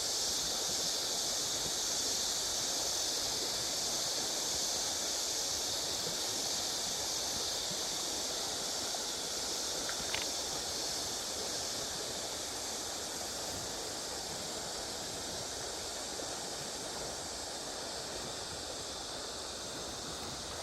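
Steady, even hiss of riverside ambience, flowing water and outdoor background noise, easing slightly over time, with a single short click about ten seconds in.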